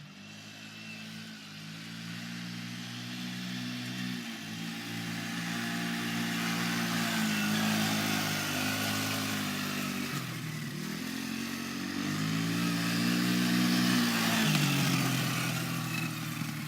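Small 90cc off-road engine being ridden hard, revving up and easing off repeatedly: its pitch climbs and drops several times, and it grows louder as the rider comes closer.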